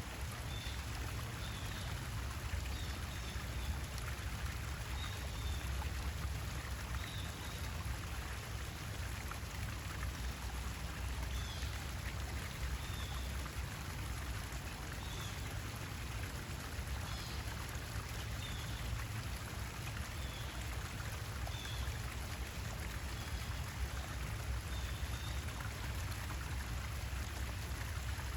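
Steady running water with a small bird giving short, high chirps every second or two, over a low rumble.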